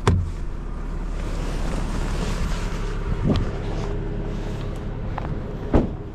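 Tow truck engine idling steadily, with a sharp knock at the start and two more knocks about three and six seconds in.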